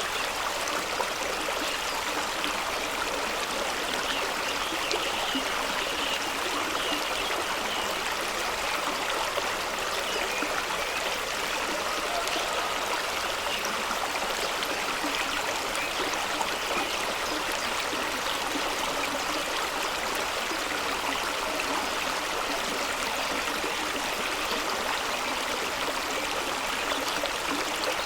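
Fast-running stream rushing over rocks: a steady, even rush of water.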